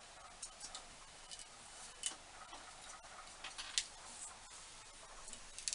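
Metal tap being turned by hand in a tap wrench, cutting a nut's thread to 5/8 Whitworth: faint, irregular small clicks and ticks from the tap and nut.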